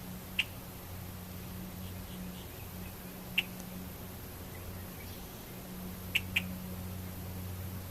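Red-winged blackbird giving short, sharp call notes: one about half a second in, another near the middle, and a quick double call near the end, over a steady low hum.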